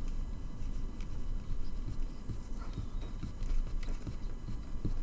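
Light ticks, taps and a few soft knocks of small model-kit parts being handled and fitted by hand at a workbench, over a steady low hum.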